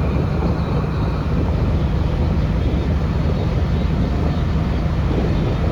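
Steady road and engine noise of a car driving at speed, a low rumble with an even rushing hiss over it.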